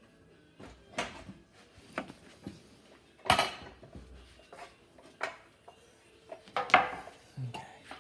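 Irregular metal clanks and clinks from handling an exhaust pipe on an exhaust pipe expander, the loudest about three seconds in and again near seven seconds.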